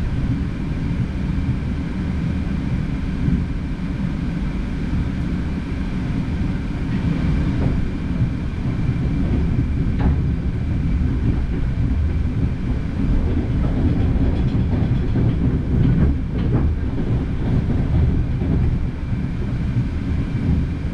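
Passenger train running at speed, heard from inside the carriage: a steady low rumble of wheels on track with a faint whine above it. Several sharp clicks come through about halfway in and again a few seconds later as the wheels pass over rail joints.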